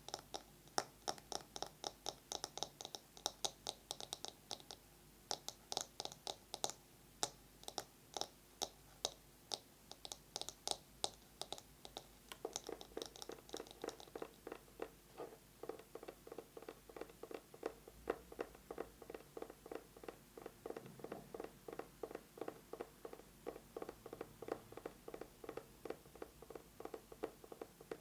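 Fast fingernail tapping, first on a bamboo massage brush as sharp, bright clicks. About halfway through it changes to denser, duller tapping on an eyeglasses case.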